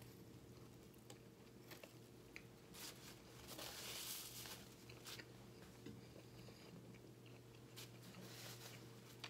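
Faint, close-miked chewing of a bagel sandwich, with soft scattered mouth clicks. About four seconds in, a brief soft rustle as a napkin wipes the mouth. A steady low hum sits underneath.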